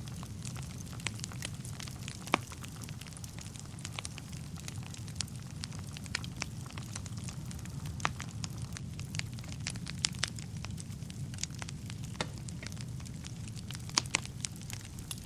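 Wood fire burning in a fireplace: a steady low rumble of flame with irregular sharp crackles and pops from the burning logs, the loudest pops about two seconds in and twice near the end.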